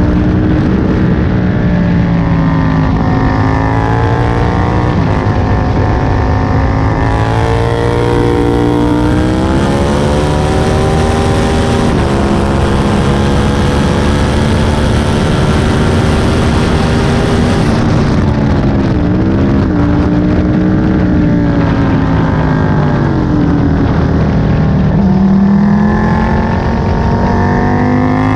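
Aprilia Tuono 1000's V-twin engine heard from on board at track speed, its pitch climbing under acceleration, holding high, dropping and climbing again as the bike is ridden through the gears and corners. Wind rush hisses over it for about ten seconds in the middle.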